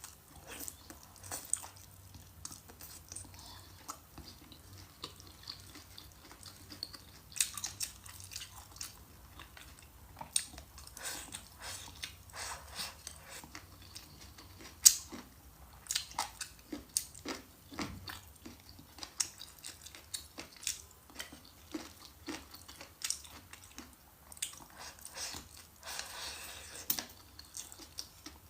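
Close-miked chewing and crunching of food, a steady stream of irregular crisp clicks, with one sharp, much louder crunch about halfway through.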